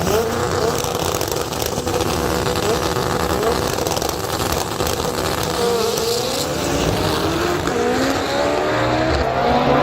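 Car engine revving, its pitch rising and falling several times, then climbing steadily over the last few seconds.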